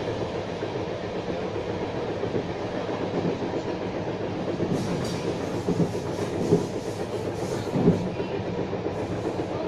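Passenger train running along the track, heard from inside the carriage as a steady rumble of wheels on rails. About halfway through comes a run of sharp clacks and knocks from the wheels, three of them standing out louder.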